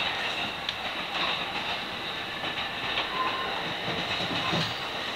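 Electric commuter train running through a yard full of points, heard from inside behind the cab: a steady running rumble with irregular clacks as the wheels cross rail joints and switches.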